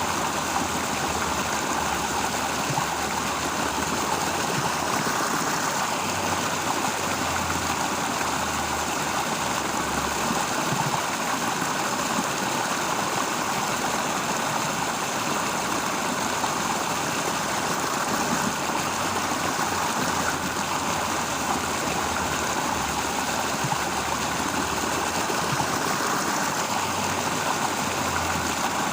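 Steady rush of flowing water, like a stream, with a low rumble underneath that swells and fades.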